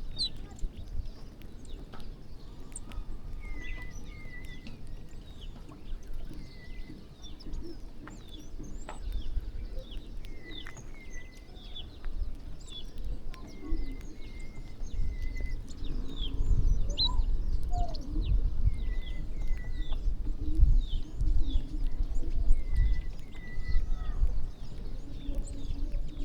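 A flock of birds feeding, with many short overlapping chirps and calls throughout. A low rumble under them grows louder about halfway through.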